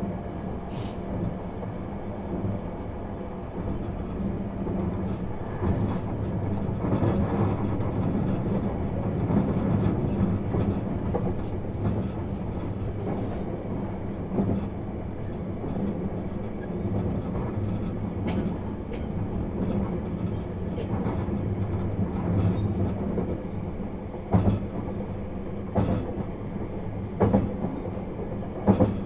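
Inside a JR East 651 series electric train on the move: a steady rumble with a low hum, and sharp rail-joint clacks several times near the end.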